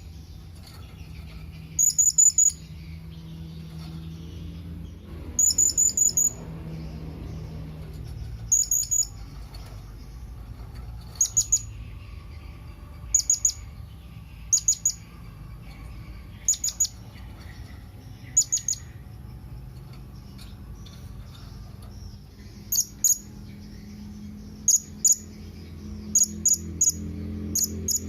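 Blue-crowned hanging parrot (serindit) giving its contact call: short, sharp, very high-pitched chips, singly or in quick runs of two to four, repeated every second or two over a steady low hum.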